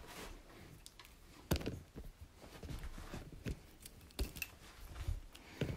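A few faint, scattered clicks and knocks against a quiet background.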